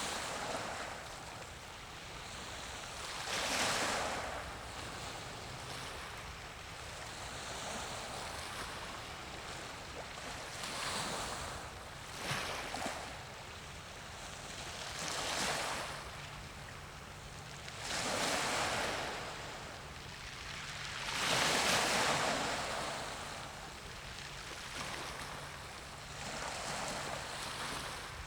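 Small waves washing in and drawing back, each surge swelling and fading, about seven times at uneven intervals, over a faint steady low hum.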